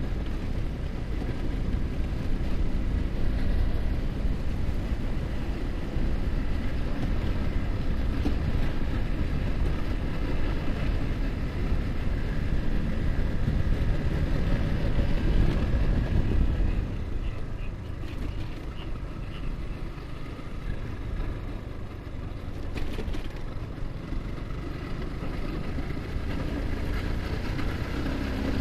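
Yamaha R15's single-cylinder engine running on the road, with heavy wind noise on the microphone. It eases off and quietens about two-thirds of the way through, then the engine note climbs near the end as the bike accelerates.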